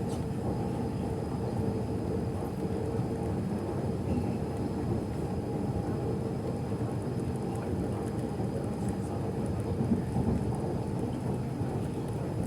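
An MTR East Rail Line R-train running between stations, heard inside the car: a steady low rumble of wheels on track, with a faint steady high tone above it.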